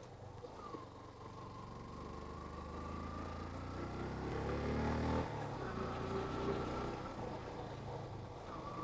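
Yamaha FZ motorcycle's single-cylinder engine pulling under throttle, rising in pitch and strength until about five seconds in, then dropping off sharply.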